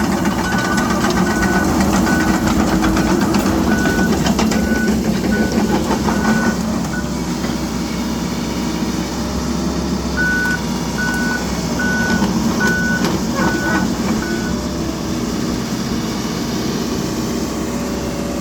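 Excavator running with its diesel engine droning steadily while its travel alarm beeps, a short high beep about every 0.6 s. The beeping stops for about three seconds partway through, then resumes for a few seconds before stopping again.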